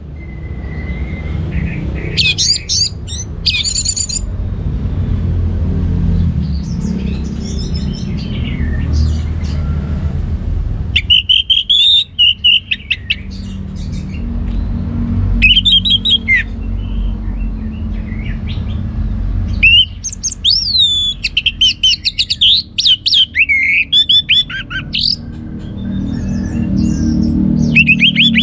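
Orange-headed thrush singing in bursts of rapid, varied whistled phrases every few seconds, over a steady low rumble.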